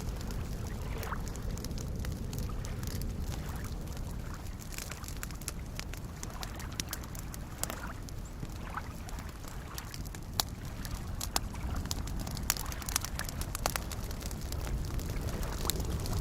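Wood campfire crackling and popping, with a run of sharper pops in the second half, over the steady low wash of small waves lapping at a lakeshore.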